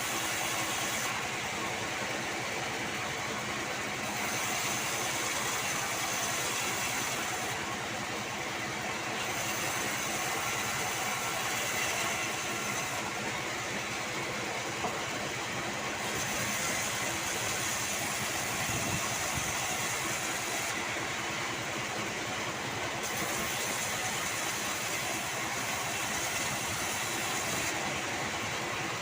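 Bandsaw-28 band sawmill running steadily while sawing sengon wood. Its top-end hiss drops out and returns every few seconds.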